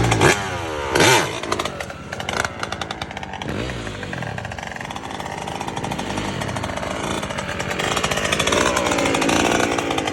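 Yamaha YZ125's single-cylinder two-stroke engine revving, with a sharp burst of throttle about a second in, then several slower rises and falls in pitch.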